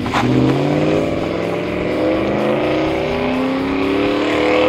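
Dodge Ram 1500 V8 running through a Flowmaster American Thunder cat-back exhaust with a 50 Series HD muffler, accelerating: the exhaust note climbs steadily in pitch throughout.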